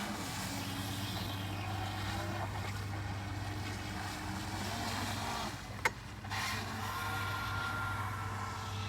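RC jet boat running on the water: a steady rush of motor and water with a constant low hum. About six seconds in the sound briefly drops with a sharp click, and then a higher steady whine comes in.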